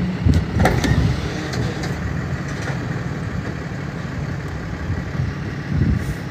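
Motor vehicle engine idling, a steady low rumble, with a few short clicks and knocks in the first couple of seconds.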